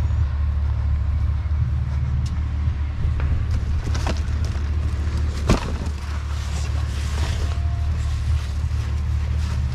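Pickup truck engine idling with a steady low rumble, with a few short knocks and rustles as gear is handled, the sharpest about halfway through.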